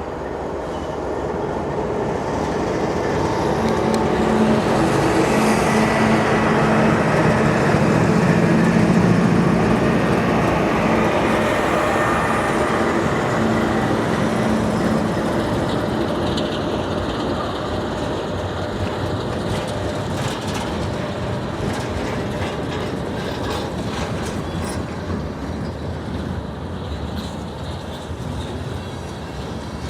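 Diesel-hauled train passing: the locomotive's engine drone builds and is loudest about eight seconds in. The train's cars then keep rolling by with wheel clatter, slowly fading.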